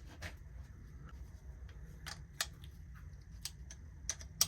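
Scattered light metallic clicks and taps of a hand wrench working the 8 mm nuts off a lawnmower carburetor, irregularly spaced, with the sharpest click near the end.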